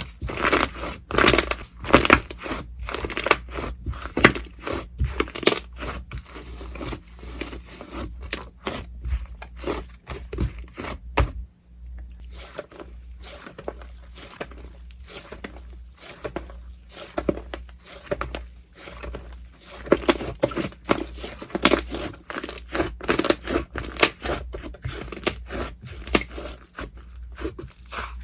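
Slime being squished, stretched and poked by hand, giving dense, irregular crackling and popping, with a quieter patch in the middle.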